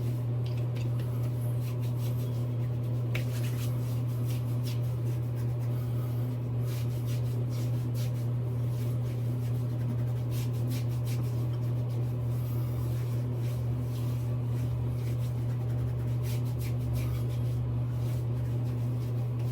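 A steady low hum, with faint intermittent rubbing and light ticks over it, such as hands on skin or handling of small items.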